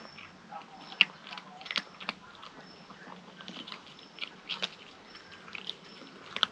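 Kitten eating, with irregular sharp clicks and crunches of chewing and biting into its food.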